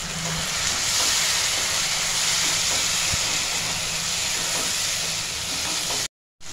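Tomato purée sizzling in hot oil and fried onion paste in a nonstick pan as it is stirred with a wooden spatula: a steady frying hiss that drops out for a moment near the end.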